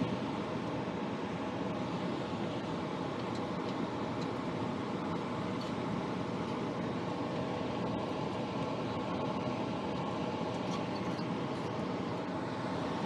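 Steady whooshing hum of running HVAC equipment, fan and motor noise, with a short knock at the very start.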